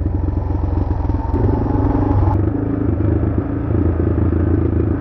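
Adventure motorcycle engine running on a trail ride, its note stepping up and down a few times as the throttle changes.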